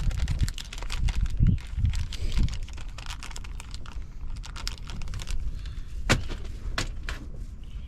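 Close handling of fishing tackle while rigging a soft-plastic fluke bait on a hook: a run of small clicks and taps, with two sharper clicks about six and seven seconds in, over a low handling rumble.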